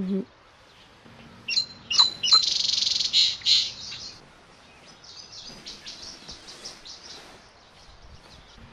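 Birds chirping: a few quick, high, falling whistles about one and a half seconds in, then a rapid high trill for about a second and a half, with fainter chirps after.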